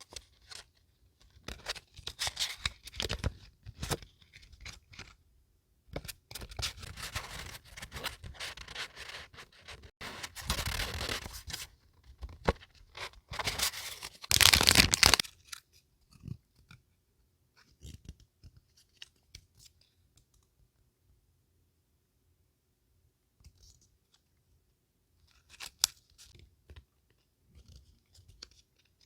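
Paper being handled close to the microphone: scratchy rustling and tearing-like stretches over the first half, loudest a little before the midpoint. Then it is mostly quiet, with one short rustle a few seconds before the end.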